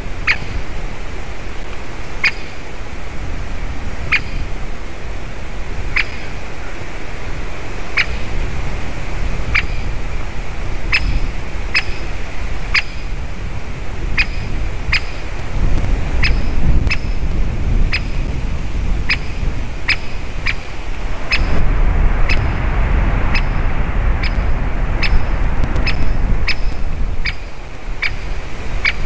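Great spotted woodpecker giving short, sharp single 'kik' calls, spaced about two seconds apart at first and quickening to roughly two a second. Gusts of wind rumble on the microphone underneath.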